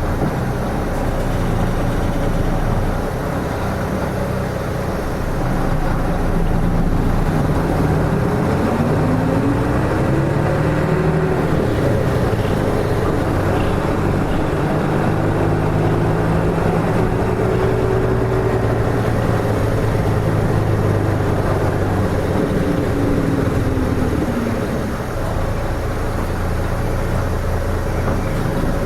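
Engine and running noise of a KK-RM252GSN route bus on the move. The engine note climbs from about a quarter of the way in, holds, then falls away again about two-thirds of the way through.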